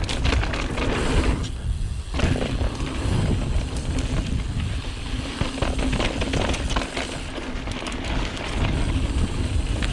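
Mountain bike riding fast down a dirt trail: wind buffets the microphone, the tyres run over dirt, and the chain and frame rattle over bumps. There is a brief lull about a second and a half in.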